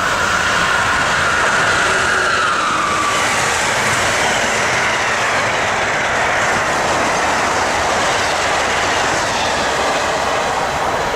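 Amtrak Northeast Regional passenger train passing at speed: a loud, steady rush of wheels on rail, with a single whine that falls in pitch over the first few seconds.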